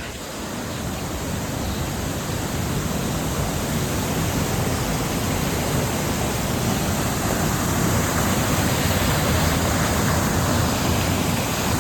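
Steady rushing of a waterfall, growing slowly louder.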